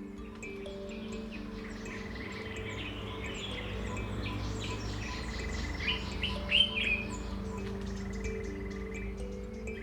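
Birds chirping and trilling, with the loudest calls about six to seven seconds in, over soft music of held low notes.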